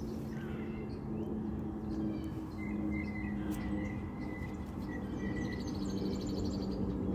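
Small birds chirping faintly, with a thin drawn-out note in the middle and a fast high trill near the end, over a steady low hum.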